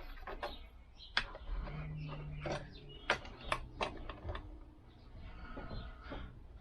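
Irregular light clicks and taps of parts and hand tools being handled while fitting the chain to a Lambretta engine, with a short low hum about two seconds in.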